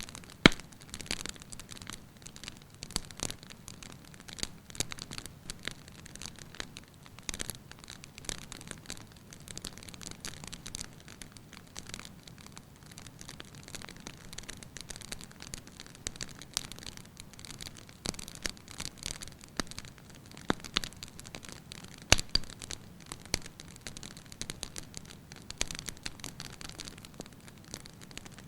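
Firewood burning in a fireplace, crackling with irregular snaps and pops over a low steady hiss. Two sharper pops stand out, about half a second in and about twenty-two seconds in.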